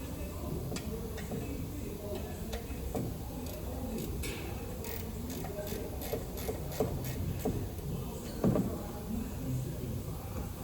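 Scattered light clicks and taps of tools and parts being handled, over a low steady hum, with a heavier knock about eight and a half seconds in.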